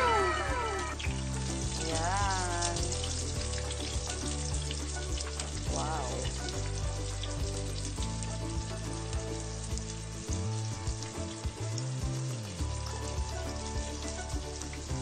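Breaded pork cutlet (tonkatsu) frying in hot oil in a pan over medium heat: a steady crackling sizzle.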